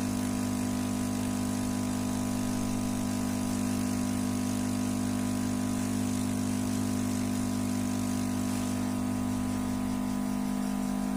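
Steady, unchanging low machine hum.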